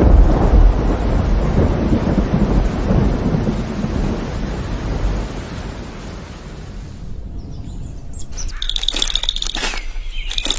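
A deep, loud rumble that slowly fades away over about seven seconds, then repeated high chirps, like birds, from about eight seconds in.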